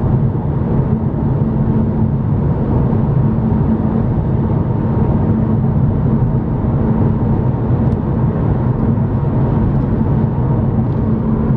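Loud, steady tire roar heard inside a car's cabin at highway speed from Yokohama Advan Sport V105 performance tires, with a constant low drone. The owner calls the tires obnoxiously loud and suspects it is because they are still hard in the cool weather, or because of the air suspension.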